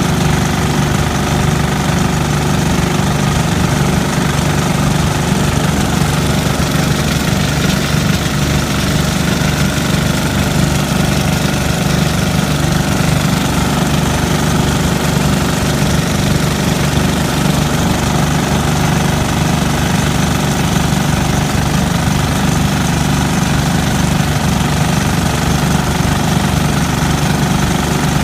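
Sears Suburban garden tractor's engine running steadily and close by, a continuous rapid-firing chug with no change in speed.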